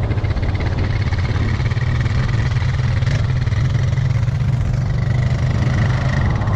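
ATV engine running steadily at low revs, a loud low hum with a faint steady whine above it.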